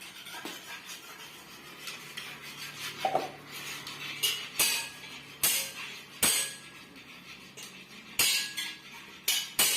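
Metal objects clanking and clinking, with about six sharp knocks in the second half, the sound of metal parts being handled or set down on a hard surface.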